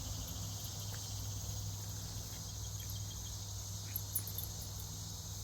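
Steady high-pitched chorus of crickets, with a faint low hum underneath and a couple of small clicks about four seconds in.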